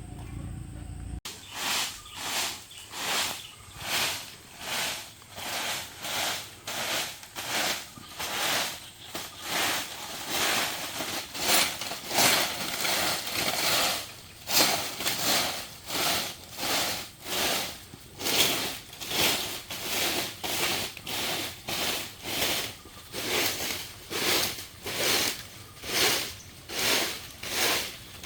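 Rhythmic strokes of a hand tool working bamboo, roughly one and a half strokes a second, each a short noisy rasp, kept up at an even pace throughout. A low hum is heard in the first second, before the strokes begin.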